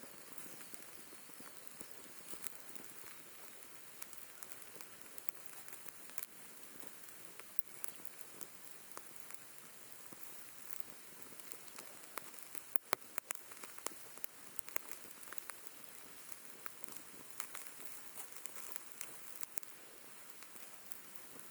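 Beef liver sizzling on a grill over a wood fire: a steady hiss with frequent sharp pops and crackles, and a quick run of louder pops about halfway through.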